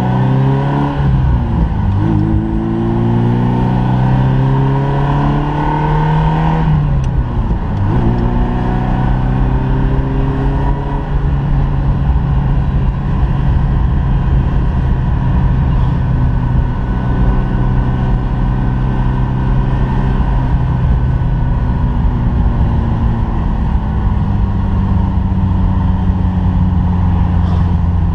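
Ferrari Mondial 3.2's V8 engine accelerating through the gears: its pitch rises and drops twice in the first seven seconds or so, as at upshifts. After that it runs at fairly steady revs, cruising, with road and wind noise underneath.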